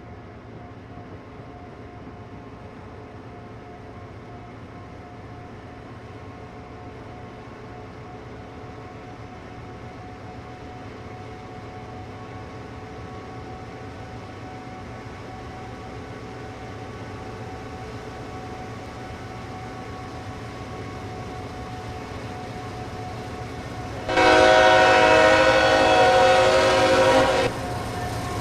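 CSX train approaching, its low rumble slowly growing louder, then a loud blast of the locomotive's multi-note air horn about 24 seconds in, held for about three seconds before it cuts off.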